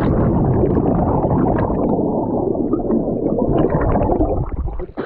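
Lake water churning and bubbling around a person who has just jumped in, heard muffled from under the surface. The sound stays loud and dense, then falls away sharply near the end.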